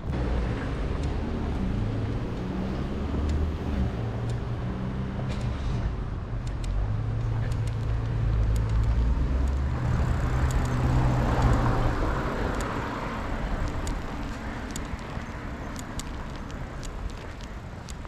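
A motor vehicle passing close by: a low engine hum through the first twelve seconds, with tyre noise swelling to its loudest about eleven seconds in, then fading into distant traffic.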